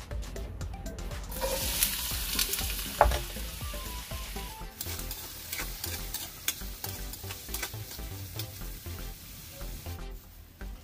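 Diced potatoes and carrots frying in hot oil in a stainless steel wok: a loud sizzle starts about a second in as the pieces hit the oil, then settles into steady frying while a utensil stirs them, clicking and scraping against the metal, with one sharp clank about three seconds in. The sizzle dies down near the end.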